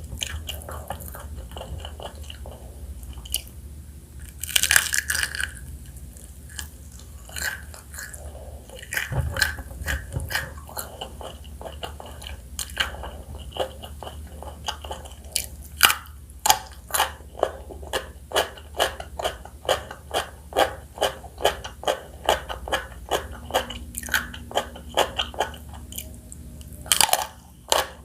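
Close-miked biting and crunchy chewing of crispy fried chicken, the batter crackling, with a louder crackle about five seconds in. From about halfway it settles into regular chewing crunches, about two a second.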